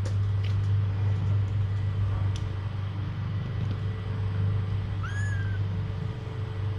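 A young kitten gives one short, high mew that rises and falls, about five seconds in, over a steady low hum.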